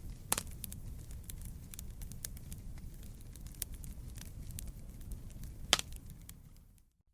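Wood fire burning: a low rumble of flames under a steady run of small crackles, with two sharp louder pops, one just after the start and one about six seconds in. The sound fades to silence for a moment near the end.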